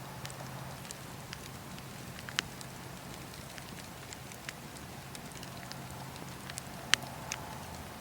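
Campfire burning: wood crackling with scattered sharp pops over a steady soft hiss, with two louder pops, one a little past two seconds in and one near seven seconds in.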